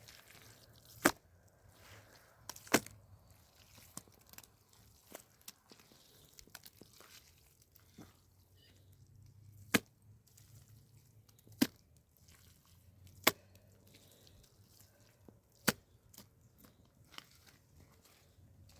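A series of sharp knocks or blows: six loud strikes spaced one to three seconds apart, with fainter knocks in between.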